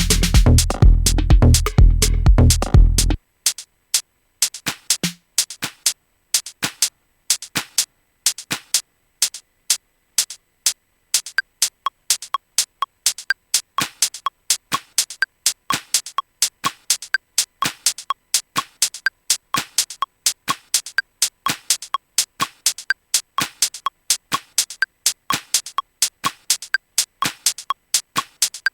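Electronic dub-techno drum-machine groove programmed in Maschine. The full mix with deep bass cuts off suddenly about three seconds in, leaving a sparse pattern of short clicky percussion hits that grows busier. A small pitched blip joins the hits from roughly twelve seconds in.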